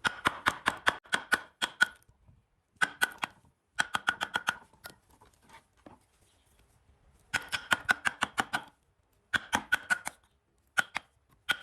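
Rapid tapping strikes, about seven a second, each with a short ringing note, coming in five bursts of a second or so with pauses between.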